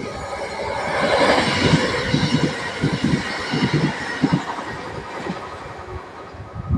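A train passing along the line, its rushing noise growing loud about a second in and easing off towards the end.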